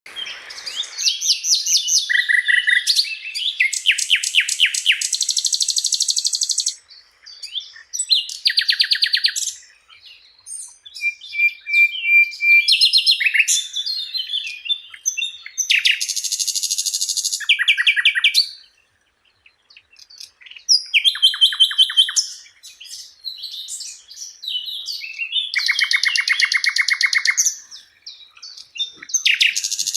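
Sikatan londo flycatcher singing: repeated phrases of fast, high, rattling trills and chattering notes, each a second or two long, with short pauses between. It is a masteran recording used to tutor caged songbirds.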